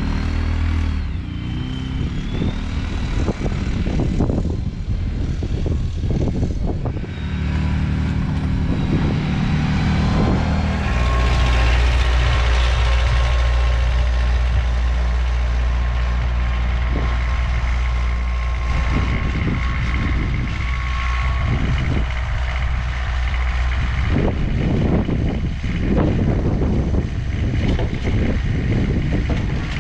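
Vehicle engine running steadily, its note changing about eleven seconds in.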